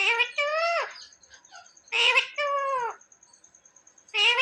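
Indian ringneck parrot repeating a two-syllable learned word about every two seconds, each utterance a pair of high, pitch-bending syllables; a third begins near the end.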